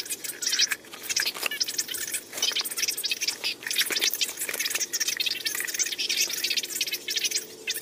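Plastic parts of a fuel pump assembly scraping and clicking as they are handled and pressed together by hand: a dense, scratchy rustle broken by many small clicks.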